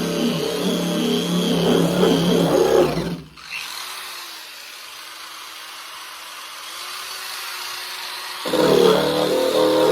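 Background guitar music plays over an electric paint-stripping wheel grinding on a truck cab's sheet metal. About three seconds in, the music drops out for roughly five seconds, leaving the tool's steady whine. The music returns near the end.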